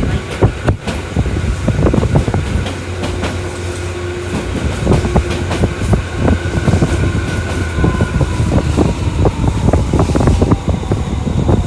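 Tokyu Toyoko Line commuter train running at speed, heard from inside the car: a steady low rumble with many irregular wheel clicks and knocks over the rails. A faint tone from the running gear slides slightly downward midway.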